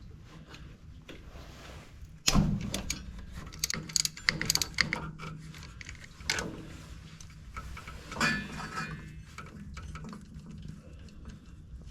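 Hand-tool work on a tractor engine: a sharp metal knock about two seconds in, then scattered clicks and clatter of wrenches and a ratchet on bolts.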